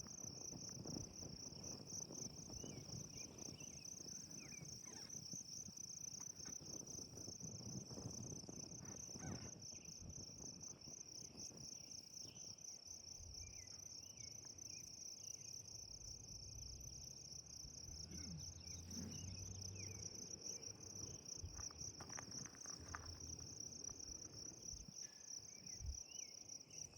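Steady chorus of insects: a continuous high, pulsing trill.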